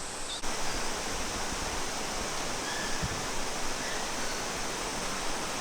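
Steady, even rush of a waterfall, with a single brief low thump about three seconds in.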